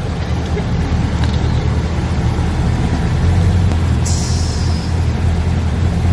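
A truck engine running with a deep, steady rumble as the truck pulls up, getting louder about halfway through, with a short sharp hiss about four seconds in.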